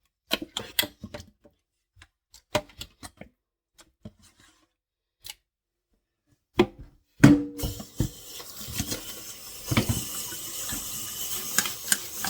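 Scattered light knocks and clicks of kitchen handling, then a couple of thumps and, about seven and a half seconds in, a kitchen tap turned on with water running steadily into the sink.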